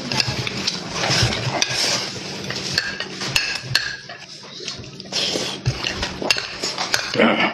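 Close-up eating sounds: chewing and slurping, with utensils clicking and clinking against dishes.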